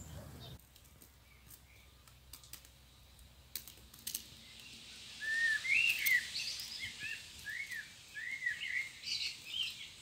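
A songbird singing: a run of short, arched chirps that starts about five seconds in, with a few faint clicks just before it.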